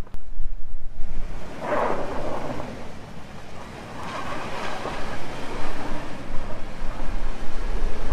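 Two-wheel-drive pickup truck driving on a snowy road: a steady low rumble with a rushing hiss that swells about two seconds in and again around four to five seconds in.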